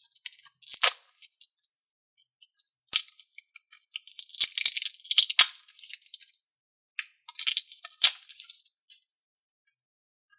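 Slime and ooze being squished and worked by hand, wet crackling and popping in separate bursts with sharp clicks and short silences between.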